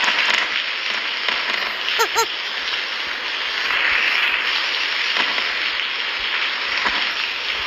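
Steady rush of heavy rain and wind from a storm, with two short pitched chirps about two seconds in.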